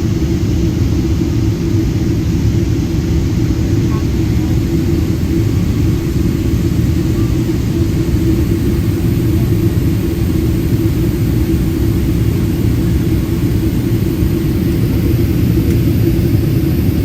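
Airliner cabin noise: a loud, steady, low rumble of the jet engines and airflow heard from inside the passenger cabin.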